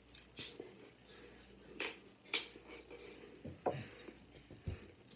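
Close-up eating sounds: a few short, crackly mouth and chewing noises, sharpest about half a second, two seconds and two and a half seconds in, with softer ones later, over quiet room tone.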